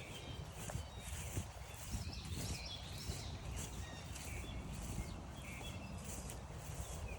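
Several songbirds chirping and singing in short, scattered phrases, over a low rumble.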